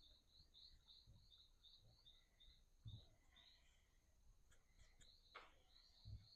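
Faint garden ambience: a bird gives a quick series of high chirps, about four a second, pauses, then chirps again, over a steady thin high insect whine. A few soft low thuds sound through it.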